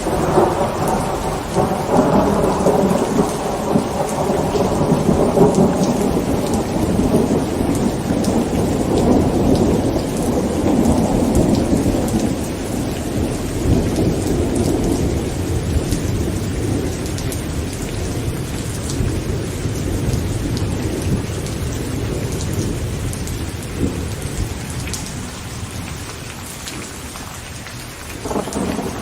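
Heavy rain drumming on a tent, with a long roll of thunder that breaks right at the start and slowly rumbles away over about twenty seconds. A new thunderclap rises near the end.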